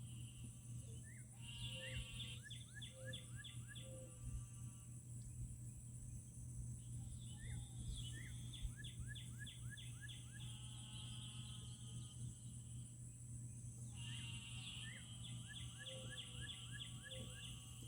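A songbird repeating the same short song phrase three times, about every six seconds, each phrase a quick series of down-slurred notes. A steady high-pitched hum runs underneath.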